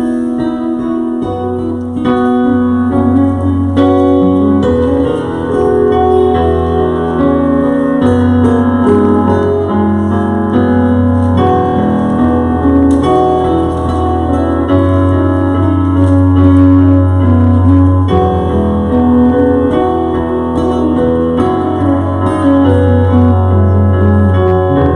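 Slow keyboard music, piano-like sustained chords over a held bass note that shifts every couple of seconds.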